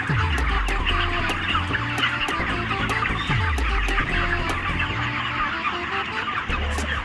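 A large flock of broiler chickens, about a month old, peeping and clucking together in a continuous dense chatter. Background music plays under it, with a bass line, a steady tick and two falling bass sweeps, one at the start and one about three seconds in.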